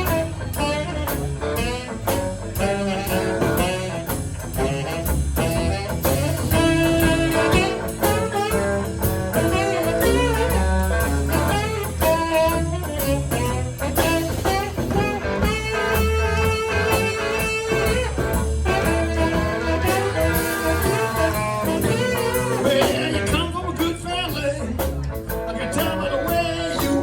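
Live blues band playing a shuffle, with a horn taking an instrumental solo over guitar, bass and drum kit.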